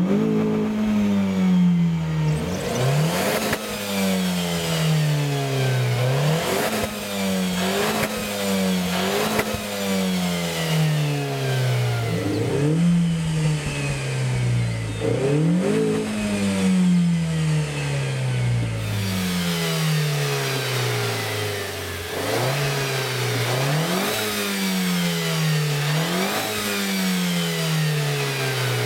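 Renault Clio RS 2013's 1.6-litre turbocharged four-cylinder engine and sports exhaust being revved again and again. The engine note jumps up quickly and falls slowly back each time, about ten times over the stretch.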